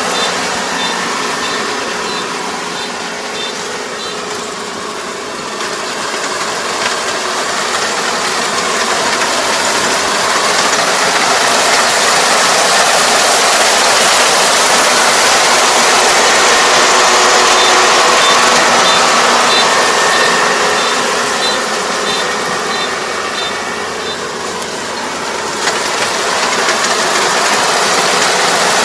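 ER470 combine harvester running steadily with a dense mechanical clatter, working through lodged rice. The noise eases slightly twice, and a faint regular high ticking sounds in places.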